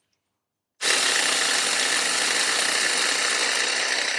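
Electric starter cranking over a nitro RC engine that is not firing, with the exhaust blocked to draw fuel from the tank through the line to the carburettor. A steady whirr starts suddenly about a second in.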